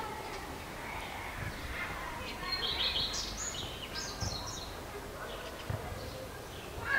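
Small songbirds chirping and calling, with a cluster of quick high chirps and trills around the middle, over a steady outdoor background.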